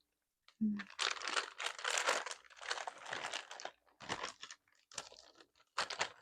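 Snack bag of hazelnuts crinkling as it is handled, in irregular rustling bursts, with a few shorter crinkles near the end.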